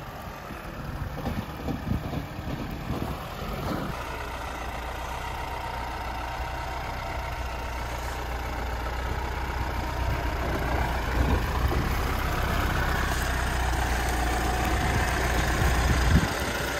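Lada Niva 4x4's engine running at low revs as it crawls over rough off-road ground, getting gradually louder as it comes closer. A single short thump comes near the end.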